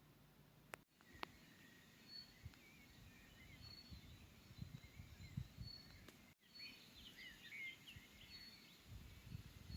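Faint birdsong: small birds twittering and chirping, with short high notes repeated every second or so. A low rumbling noise builds near the end.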